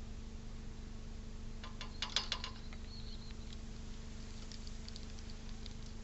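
Scrabbling and a quick run of clicks at a bird feeder about two seconds in, typical of a squirrel working at the feeder, followed by a short high chirp and scattered light ticks, over a steady low hum.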